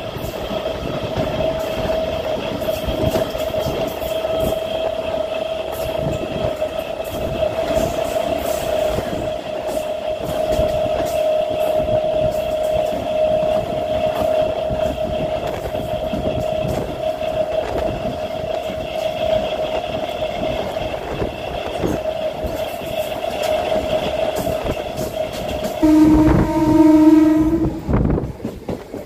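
MEMU electric train running at speed, heard from its open doorway: a steady high whine over the rumble and clicking of the wheels on the rails. Near the end the train's horn sounds for about two seconds.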